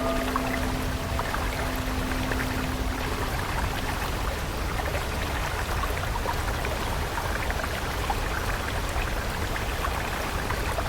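Steady rushing of a flowing water stream. A soft held musical tone sounds over it for the first few seconds and then fades out.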